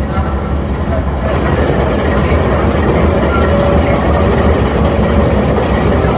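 Diesel locomotive idling at a station platform: a steady, loud low rumble with no change in speed.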